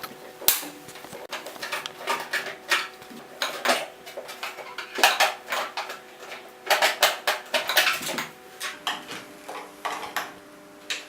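Plastic casing of a PTC fan heater being taken apart by hand with a screwdriver: irregular clicks, clacks and rattles of plastic cover parts and tool.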